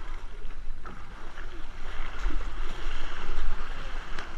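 Water splashing and sloshing from kayak paddling, with wind rumbling on the microphone and faint distant shouts.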